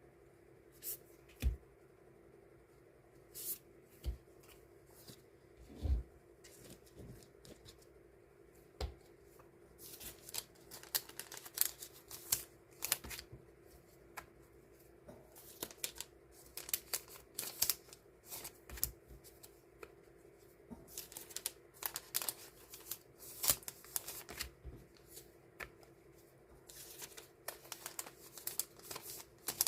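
Hands sorting and portioning die-cut paper stickers: quick crisp rustles, flicks and light taps of the sheets. They are sparse at first and come thick and fast from about ten seconds in, over a steady low room hum.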